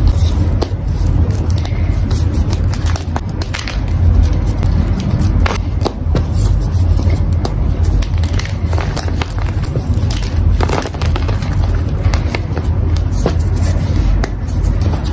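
Blocks of powdery gym chalk being crushed and crumbled by hand: many irregular crunching crackles over a steady low rumble.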